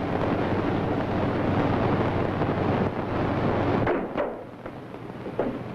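Loud, dense rushing noise over a steady low hum on an early sound-film track, dropping away about four seconds in, followed by a few short, faint sounds.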